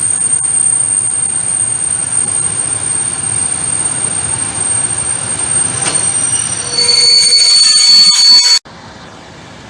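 Freight train rolling past with a steady high-pitched wheel squeal over the rumble of the wagons. Near the end the squeal shifts to a lower pitch and grows louder, then the sound cuts off suddenly to a quieter background.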